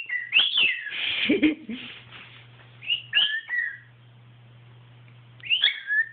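Cockatiel whistling short phrases of sliding, up-and-down notes in three bursts with pauses between them. There is a harsher, noisier note a little after a second in.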